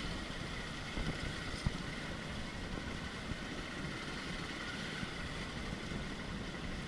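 Vehicle engine running steadily with wind noise on the microphone, and a couple of small knocks about a second in.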